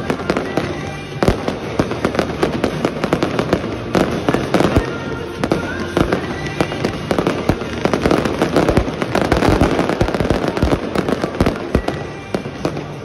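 Fireworks barrage: aerial shells bursting in rapid, overlapping bangs and crackles, with music playing underneath. The barrage eases off near the end.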